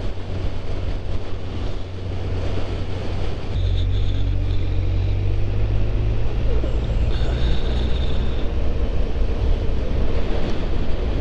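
Wind buffeting the microphone over the steady running of a Honda VFR800's V4 engine at road speed. The low rumble gets louder about three and a half seconds in.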